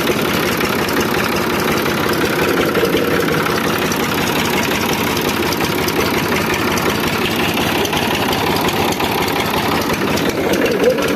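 Massey Ferguson 5245 tractor's diesel engine idling steadily.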